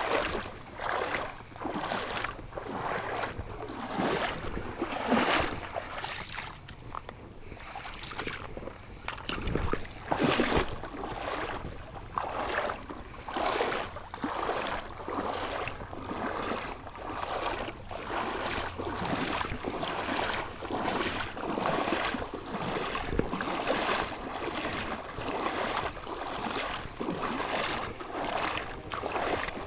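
Water sloshing and splashing in a steady rhythm, about one stroke a second, as something moves repeatedly through river water.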